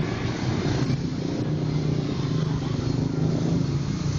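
A motor vehicle's engine running nearby with a steady low hum that settles in about a second in.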